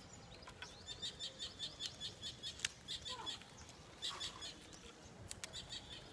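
Small bird chirping: a quick run of short high chirps, about five a second, starting about a second in, and another burst around four seconds in. A few sharp clicks are mixed in; the loudest comes about two and a half seconds in.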